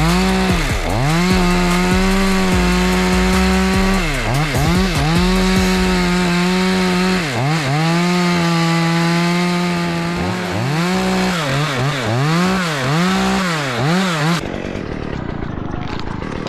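Two-stroke chainsaw cutting through dead pine wood, held at high revs for long stretches with the revs dropping and picking back up several times. It stops abruptly near the end.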